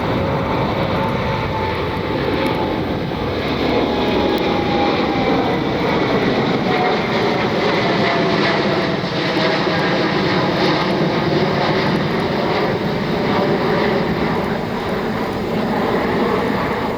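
Boeing 787 Dreamliner's twin jet engines at takeoff power as it departs, loud and steady, with a thin whine that slides slowly down in pitch.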